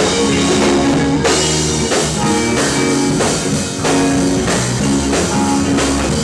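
A rock band playing live, with drum kit and electric guitars keeping a steady beat.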